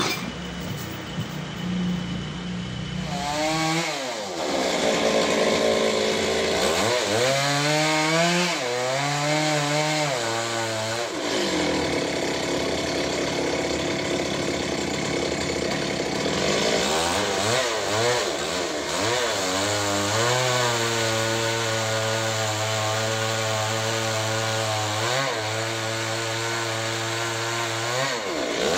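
Engine-driven sawmill cutting through a large trembesi (rain tree) log, with the engine and blade running continuously over a constant hiss of cutting. The engine note dips and recovers several times in the first half as the load on the cut changes, then holds steadier in the second half.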